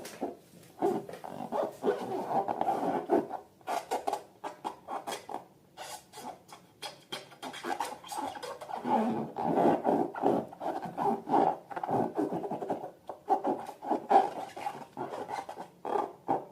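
Balloons and slime being handled by hand: many quick, uneven rubbing and squishing strokes.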